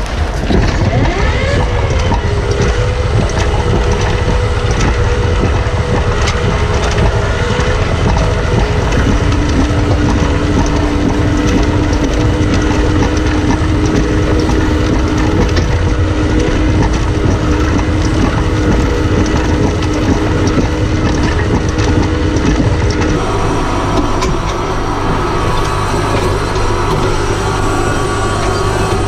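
Tractor engine running steadily under load while a manure spreader throws chicken litter. The engine pitch briefly rises and falls about a second in, and the engine note shifts lower about three quarters of the way through.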